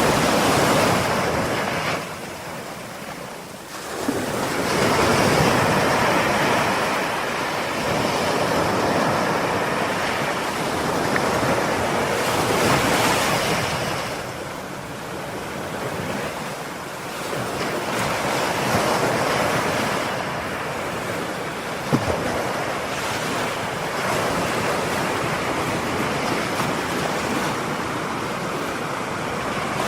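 Ocean surf breaking and washing ashore, a steady rush that swells and ebbs with each wave, with quieter lulls between the breakers. A single sharp click about two-thirds of the way through.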